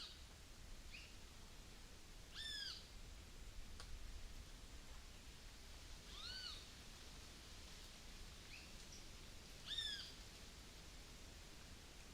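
A bird repeating a short, clear call that rises and falls in pitch, three times at intervals of about three and a half seconds, with a fainter short note in between, over quiet countryside background hiss.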